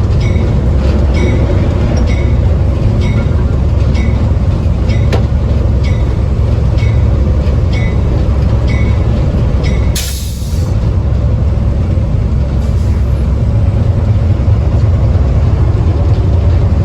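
Railway car rolling along the track, heard from aboard: a steady low rumble with a regular ticking about three times every two seconds, and a short sharp hiss about ten seconds in.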